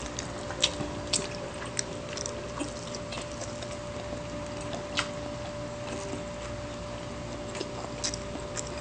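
Close-up eating sounds of two people chewing tocino and luncheon meat: irregular wet mouth clicks and lip-smacks, a few every second, over a faint steady hum.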